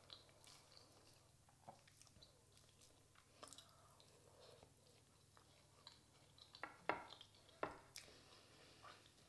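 Faint close-up chewing of a soft chocolate crepe with small wet mouth clicks. A few sharper clicks and taps come about seven to eight seconds in.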